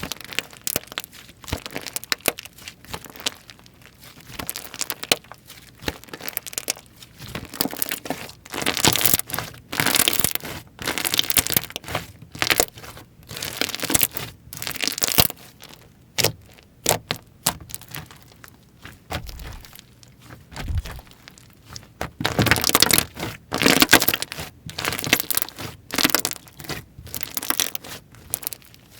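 Slime being squeezed, stretched and pressed by hand, giving wet crackling and popping in repeated bursts of many small clicks. The bursts are loudest about a third of the way in and again about three-quarters through.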